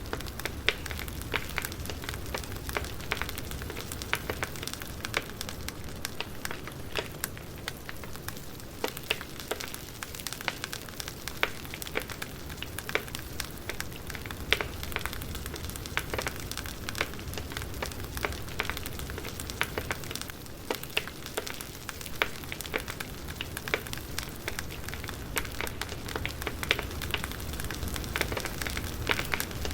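Burning firewood crackling, with frequent irregular sharp pops and snaps over a low steady rumble.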